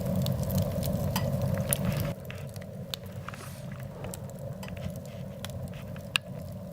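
Rain falling, a steady patter with scattered sharp drop ticks. A low rumble under it in the first two seconds cuts off abruptly, and the rain carries on quieter.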